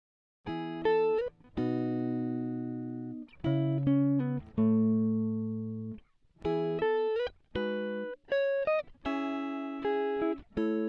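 Music: a plucked guitar playing a slow run of notes and chords, each ringing out and fading before the next, starting about half a second in.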